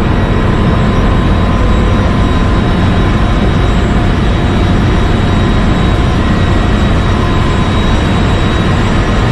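Ship's engine room machinery running: a loud, steady, unbroken drone with a deep rumble and a faint steady whine over it.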